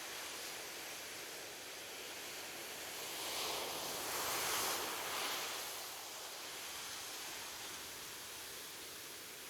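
Ocean surf: a steady wash of waves, with one wave swelling up and breaking between about three and six seconds in, then falling back.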